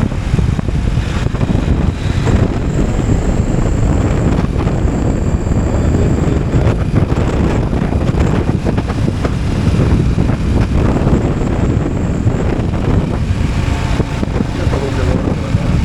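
Wind rushing over the microphone of a motorcycle on the move, with the bike's engine running under it. A faint high whine comes and goes.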